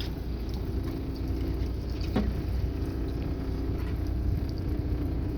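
Boat engine idling steadily under wind and water noise, with one sharp knock about two seconds in.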